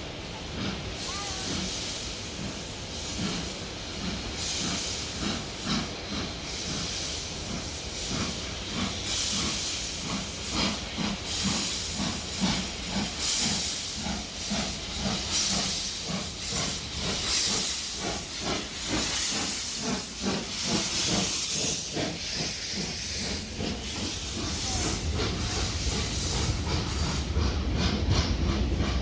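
Steam locomotive working, with a steady rhythm of exhaust chuffs and hissing steam; the beats gradually quicken as it gets under way, and a low rumble builds near the end.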